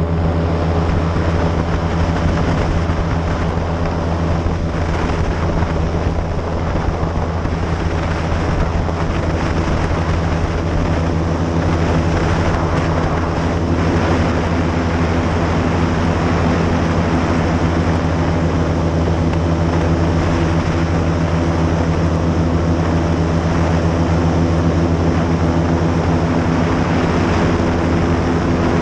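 Airboat's engine and large air propeller running at a steady cruising speed, a loud, even drone with a constant pitch.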